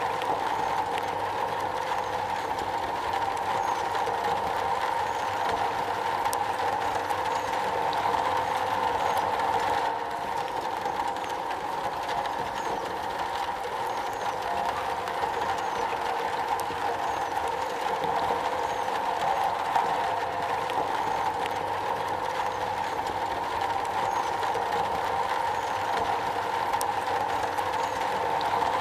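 Steady rain drumming on a metal roof, a dense unbroken patter with a ringing band in the middle of the range.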